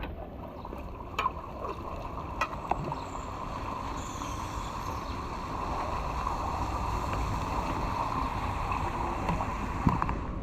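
Steady rush of flowing water, growing a little louder about halfway through, with a few sharp knocks: a couple early on and one near the end.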